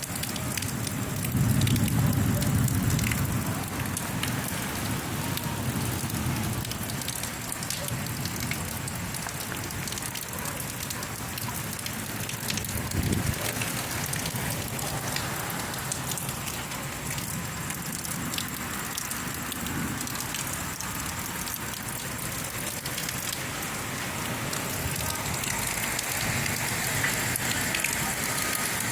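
Rain falling and pattering on surfaces: a steady hiss full of small drop ticks. A louder low rumble swells for a couple of seconds near the start.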